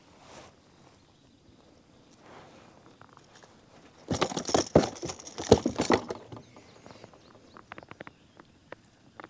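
A hooked bass being landed at a kayak: about four seconds in, a two-second burst of splashing and knocking, then a scatter of light clicks.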